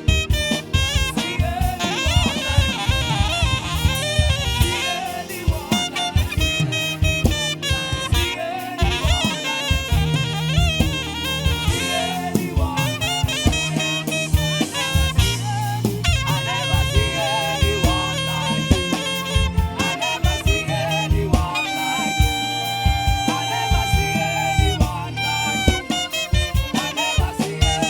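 Live band music led by saxophone over drums and bass, the saxophone playing a busy melodic line and holding one long note near the end.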